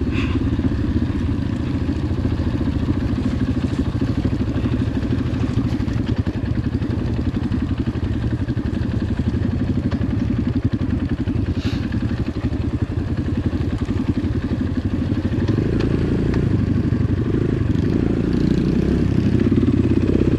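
Dirt bike engine running steadily at low revs, with a short sharp click about twelve seconds in.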